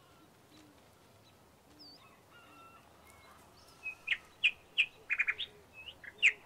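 Birds calling: faint high chirps at first, then, from about four seconds in, loud, short, sharp calls, some in quick runs of four or five notes.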